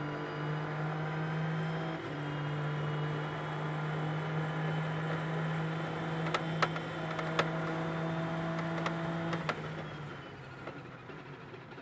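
Race car engine running at a steady, unchanging pitch, with a few sharp clicks between about six and nine seconds in; it fades away near the end.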